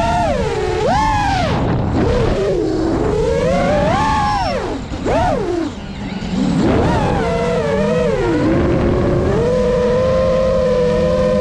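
Radio-controlled model airplane motors buzzing in flight, the pitch swinging up and down again and again as they change throttle and pass by, with a lower steady hum underneath. Near the end the higher pitch settles into a steadier buzz.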